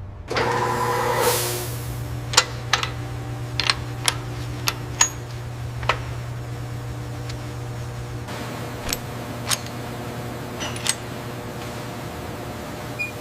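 Workshop assembly sounds: a steady low machine hum, a short hiss just after the start, and a dozen or so sharp metal clicks and knocks scattered through.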